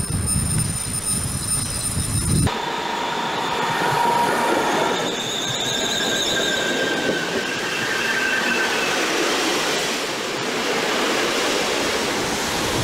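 For the first couple of seconds a freight train of covered wagons passes with a low rumble. Then a sudden change to a passenger train rolling close by, its wheels squealing with high whining tones over loud running noise as the coaches and the electric locomotive go through the station tracks.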